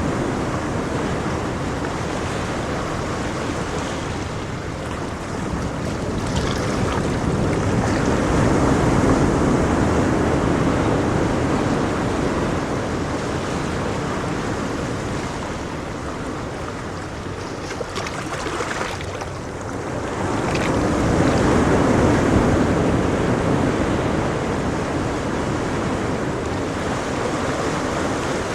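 Ocean waves breaking and washing on a shore, a steady rush that swells louder twice, about a third of the way in and again near three quarters through.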